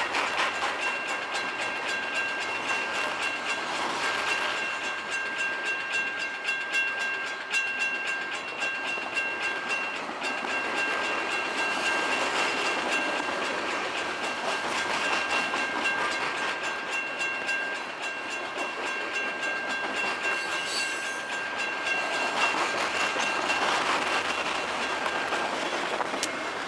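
Freight train of covered hopper cars rolling past at close range: a steady rumble of steel wheels on rail with dense rapid clicking, and a thin high-pitched whine held through most of the passage.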